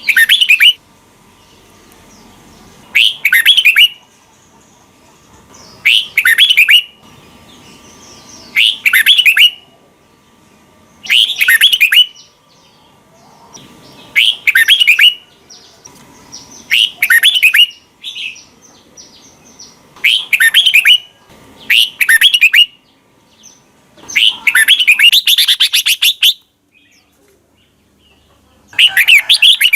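Red-whiskered bulbul singing short, loud phrases about every three seconds, many of them in two quick parts, with one longer phrase a little past the middle.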